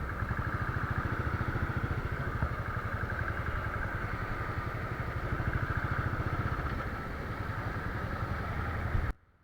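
Motorcycle engine running steadily under way. The sound cuts off abruptly near the end.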